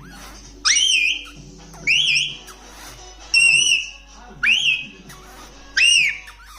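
Pet parrot whistling five times, about one call every 1.3 seconds. Each call is a quick upward swoop that levels off into a short held whistle.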